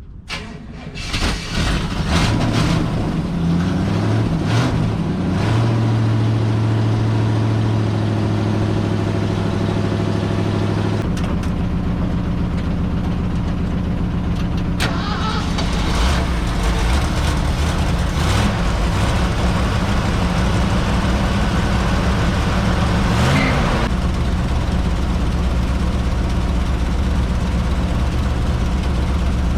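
1968 Ford Bronco's engine starting and then running steadily, its tone shifting a few times.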